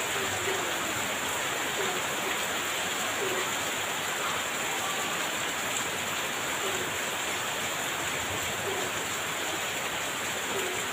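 Heavy rain falling in a steady, dense hiss, with faint short gliding calls heard now and then behind it.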